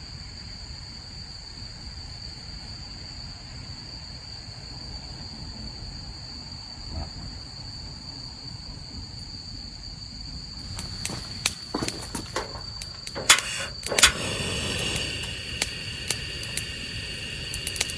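A steady high chirring of night insects such as crickets. From a little past the middle, scattered clicks and knocks of gear being handled come in, with two louder knocks about a second apart.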